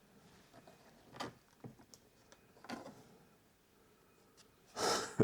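Faint, scattered clicks and taps of a screwdriver working at a stuck plastic piece on a motorhome, which won't snap out. A short, louder rushing noise comes near the end.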